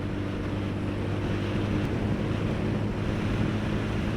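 Motorcycle engine running steadily while riding, under strong wind rushing over the camera microphone.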